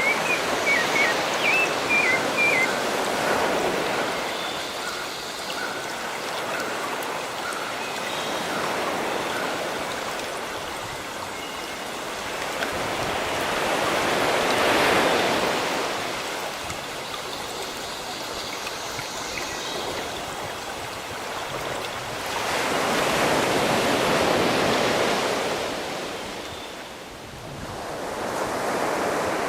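Sea surf washing in and out, swelling to two broad peaks and ebbing between them, with birds chirping over it in the first few seconds.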